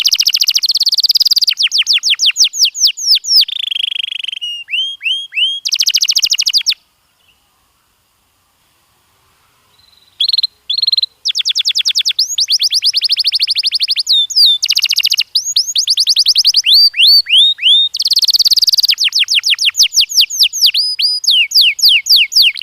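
Canary singing: fast, loud trills of repeated falling notes, changing from phrase to phrase. The song breaks off for about three seconds near the middle and then starts again.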